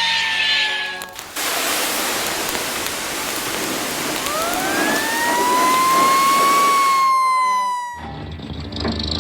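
Cartoon siren sound effect: a wailing tone slides down, then under a loud rushing noise another wail rises and slowly falls again. A low steady hum starts near the end.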